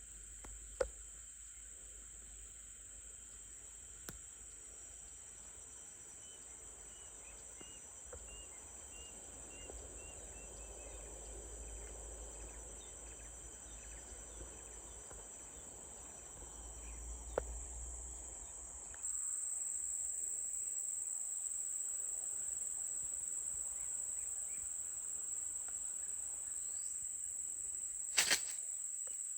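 Steady, high-pitched chorus of insects, louder from about two-thirds of the way in, with a few faint bird chirps early on and a sharp click near the end.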